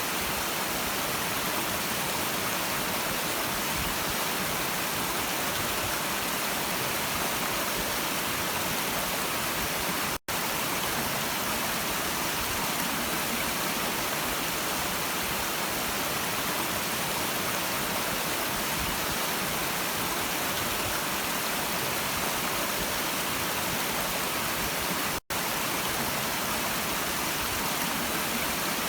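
Steady rushing of a stream, cutting out to silence for a split second twice, once about ten seconds in and again some fifteen seconds later.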